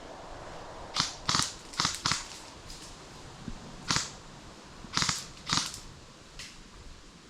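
Airsoft gun firing about eight sharp pops at irregular intervals, several in quick pairs, with the last one fainter.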